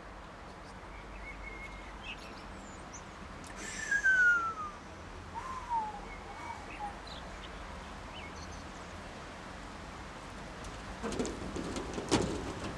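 A bird calling outdoors with short whistled notes and slurred, falling whistles, the loudest about four seconds in. A cluster of knocks comes near the end.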